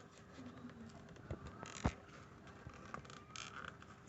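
A sheet of paper being folded and creased by hand: faint rustling and crinkling with small scattered clicks, and one sharper tap a little under two seconds in.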